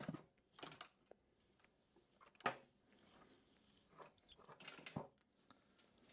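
Faint, scattered clicks and rustles of a wire being pulled through a small plastic solenoid-valve connector, with one sharper click about two and a half seconds in.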